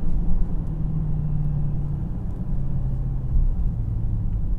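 Mercedes-AMG GLS 63's twin-turbo V8 droning at a steady drive, over a low road rumble; its note dips slightly in pitch about halfway through.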